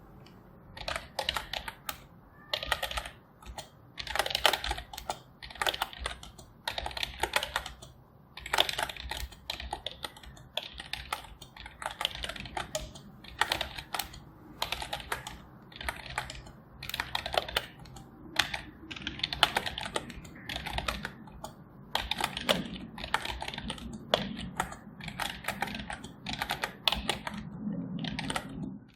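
Typing on a computer keyboard: rapid key clicks in bursts of a second or two, broken by short pauses.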